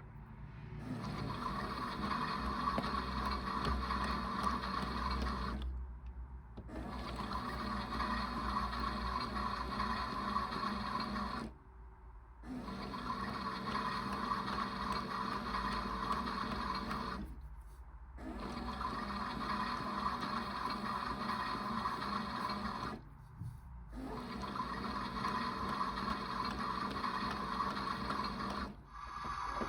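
Toy front-loading washing machine running a wash cycle: its small electric motor turns the drum with a steady hum and water swishing, stopping briefly about every six seconds as the drum changes direction.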